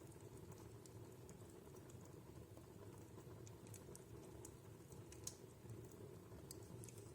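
Wood fire in a fireplace crackling faintly: scattered, irregular sharp pops over a low steady rush, with one louder pop about five seconds in.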